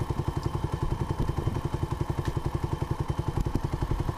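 Small engine running steadily at low revs, an even, rapid putt-putt of about eleven beats a second.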